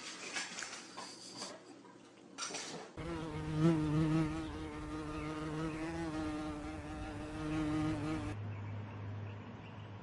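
A flying insect's steady buzz with a slightly wavering pitch, lasting about five seconds and stopping abruptly. Before it come a few light clicks and clatters, and after it a low steady hum.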